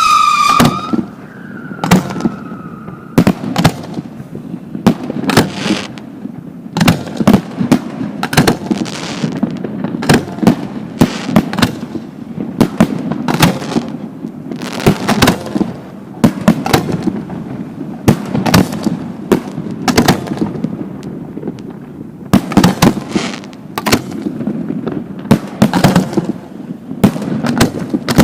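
Fireworks display: aerial shells bursting in quick succession, sharp bangs about one a second or faster all the way through. In the first few seconds two falling whistles sound among the bangs.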